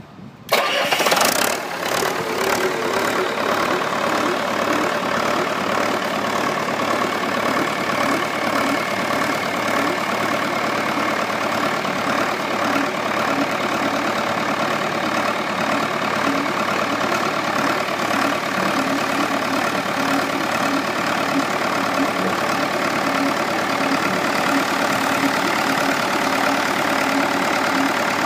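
Diesel engine of a water pump starting abruptly about half a second in, then running steadily.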